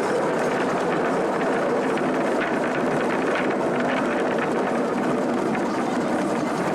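Miniature railway train running along the track: a steady rumble with faint clicks.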